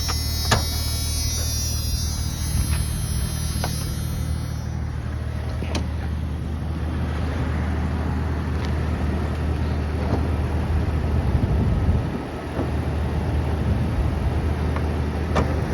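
1996 Jeep Cherokee XJ's 4.0-litre inline-six idling with a steady low rumble. A few sharp clicks and knocks sound over it, the loudest about half a second in.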